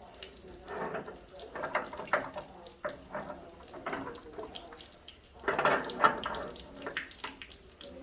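Water running and splashing in uneven surges from a water heater being drained and disconnected.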